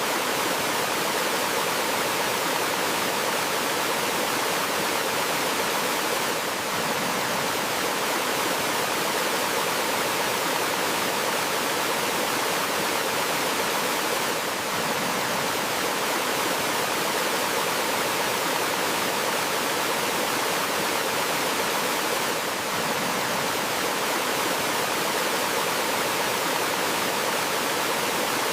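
Steady rush of water cascading down a forest stream, an even, unbroken wash of sound.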